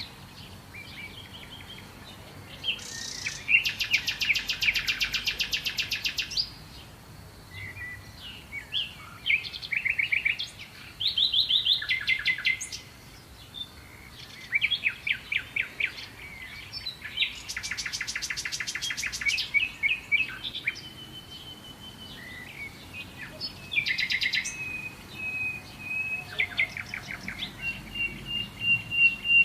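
Songbirds singing: several fast trills of rapidly repeated notes, with scattered chirps between them, and a steady high note toward the end.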